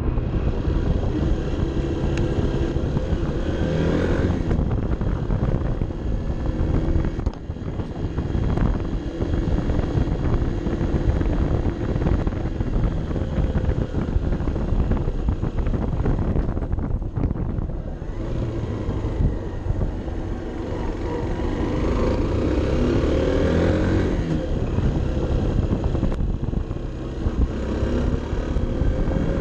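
Honda CB 125 F's single-cylinder four-stroke engine running as the motorcycle is ridden, picked up by a bike-mounted action camera with wind rushing over the microphone. The engine note rises a few times as the rider accelerates, most clearly a few seconds in and again near the end, and drops off briefly around a third and a half of the way through.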